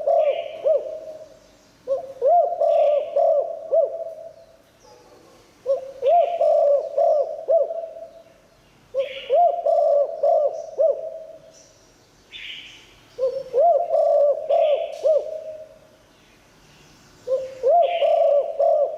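Spotted dove cooing, a multi-note coo phrase repeated about every four seconds, five times in all.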